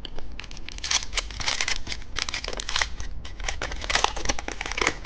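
Candy packaging crinkling and rustling in the hands as it is opened: a dense, continuous run of crackles.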